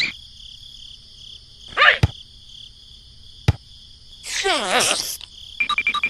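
Steady chirping of crickets, with a few short cartoonish sound effects laid over it: a single sharp click about three and a half seconds in, and a brief burst of squeaky tones falling in pitch near five seconds.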